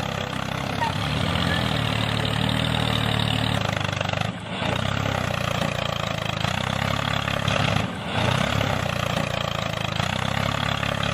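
A tractor engine running steadily at a low, even rumble, dropping away briefly twice.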